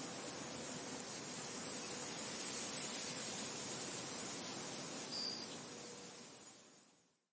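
Wind blowing as an even, steady hiss that swells a little midway, with a short high peep about five seconds in; the sound fades out to silence near the end.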